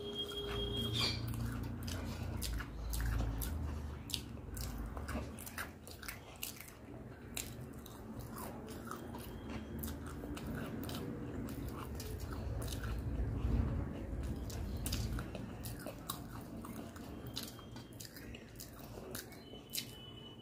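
Close-miked chewing and biting of topse (mango fish) fry, with crisp crunches of the fried coating and many small wet mouth clicks.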